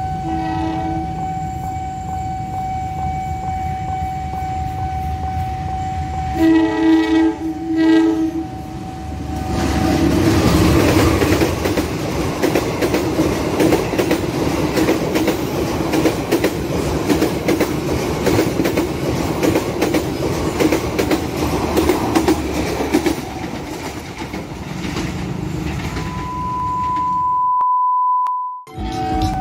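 A level-crossing warning signal sounds a steady tone while a locomotive horn blows once briefly and then twice more in quick succession. A passenger train then passes, its wheels rattling and clattering over the rails for about fifteen seconds. Near the end a steady electronic test tone plays for about two seconds.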